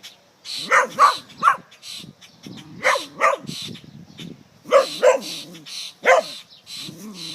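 Dog barking in short groups of two or three, about eight barks, with lower whines between them. A rapid, evenly repeated high-pitched chatter runs underneath.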